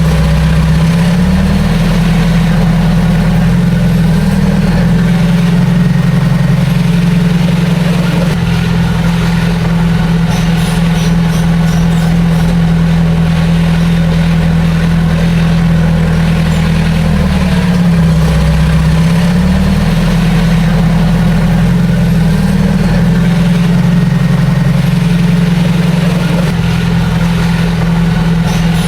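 Bulldozer's heavy diesel engine running steadily. Its pitch dips and comes back up near the start and again about 18 seconds in.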